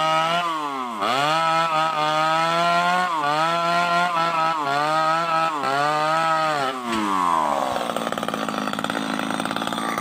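Two-stroke chainsaw running at high revs in a hardwood cut, its pitch dipping sharply and recovering about four times as the chain takes load. Near the end the revs fall away and it drops to a lower, steady running note.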